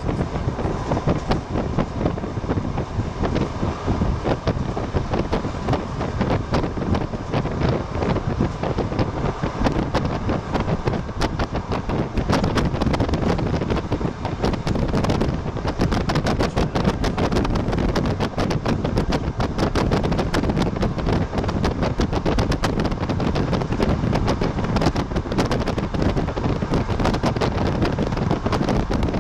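Passenger train running at speed: a steady rumble of wheels on the track with dense, irregular clattering and rattling.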